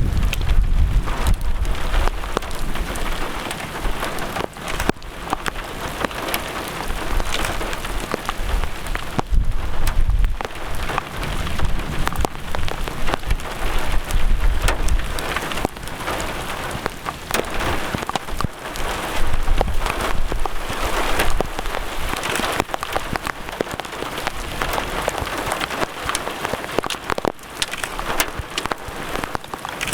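Heavy rain falling: a dense steady hiss with many sharp individual drop hits close to the microphone, and a low rumble underneath during roughly the first half.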